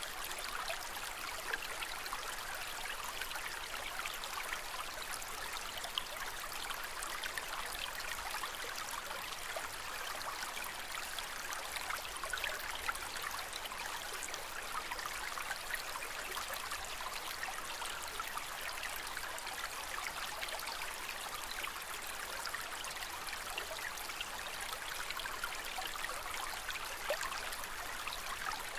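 Aquarium water trickling and bubbling steadily, with many small splashing ticks.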